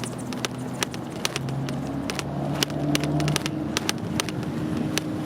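Riding noise from a bike on the move: sharp clicks and rattles at uneven intervals over a steady low drone.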